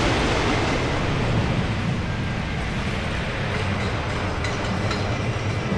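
Wooden roller coaster train rumbling steadily along its track.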